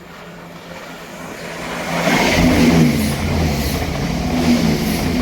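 ScotRail diesel passenger train passing through the station at speed. Engine note and rail noise build over about two seconds, then stay loud, and the engine pitch drops near the end as it goes by.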